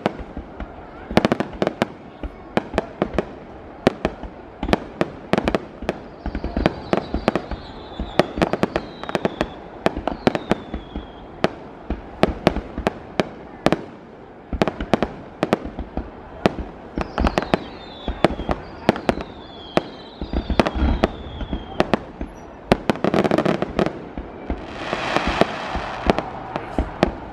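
Aerial fireworks display going off: a rapid, continuous barrage of sharp bangs and pops. Short falling whistles are heard twice. A longer hissing, crackling burst comes near the end.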